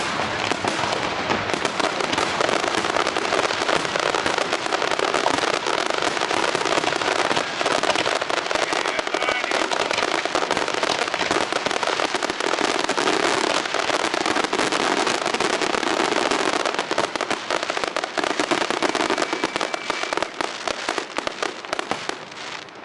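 Aerial fireworks display: a dense, continuous barrage of bursts and crackling reports, many per second, easing off just before the end.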